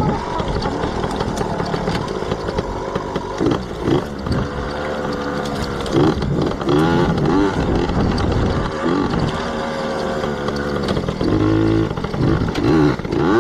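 Yamaha PW80 dirt bike's small two-stroke single-cylinder engine being ridden, its pitch climbing and dropping again and again as the throttle is worked through the gears.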